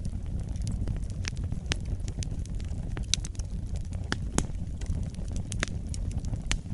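Wood fire burning in a fireplace: a steady low rumble of the flames with irregular sharp crackles and pops, a few louder snaps scattered through.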